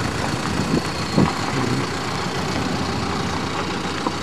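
SUV engine running as the vehicle drives past on a dirt road, with a couple of brief thumps about a second in.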